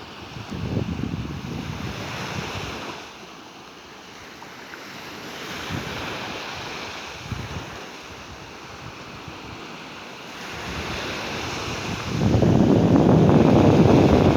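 Sea waves washing onto a beach, swelling and ebbing, with wind on the microphone. About twelve seconds in a strong gust buffets the microphone and a loud low rumble covers the waves.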